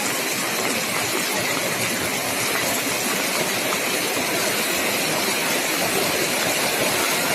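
Steady rain falling, an even, unbroken noise with no change in level.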